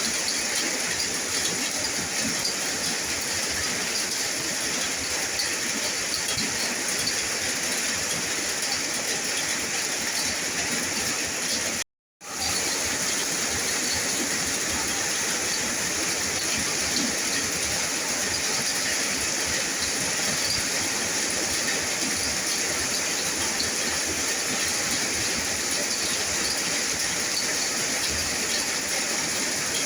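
Steady rain, an even hiss, cutting out to complete silence for a split second about twelve seconds in.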